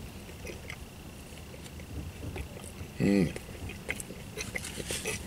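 A man chewing a bite of a chicken sandwich, with small wet mouth clicks and crackles. About three seconds in, a short, loud hummed vocal sound that dips in pitch and rises again.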